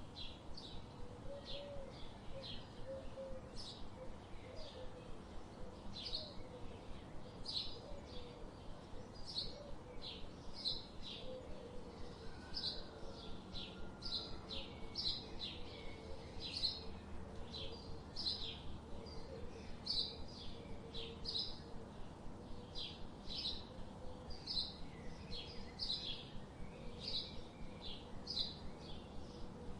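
Birds chirping: short, high chirps repeat about twice a second without a break, over a faint, lower warbling sound.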